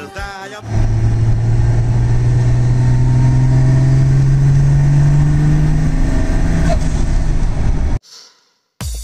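A Volvo car engine running under load, heard from inside the cabin. Its note rises slowly for several seconds and eases off about six seconds in. It cuts off suddenly about eight seconds in.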